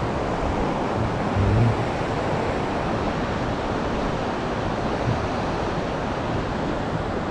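Steady rushing noise, with a brief low rumble about a second and a half in.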